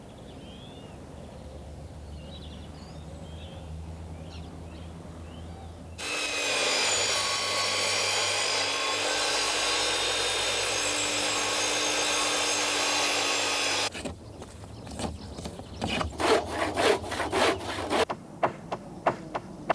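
Saw cutting timber in quick back-and-forth strokes over the last few seconds. Before that, a loud steady whine with many overtones runs for about eight seconds and cuts off abruptly.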